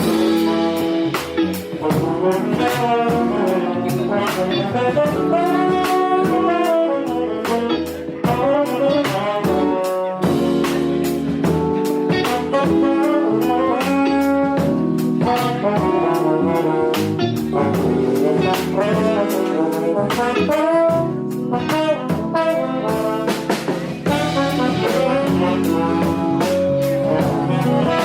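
Jazz band playing live: tenor saxophone and trombone play over a drum kit, with frequent drum and cymbal strokes, and piano, electric bass and electric guitar behind them.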